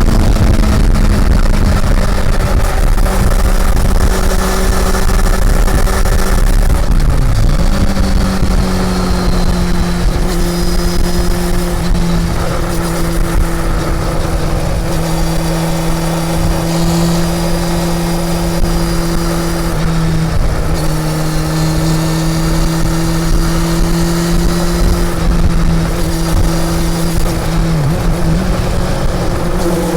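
Honda CB400 Super Four's inline-four engine running at a steady, fairly high engine speed while the bike is ridden, over a constant low wind rumble. The engine note dips briefly twice, about seven seconds in and near the end.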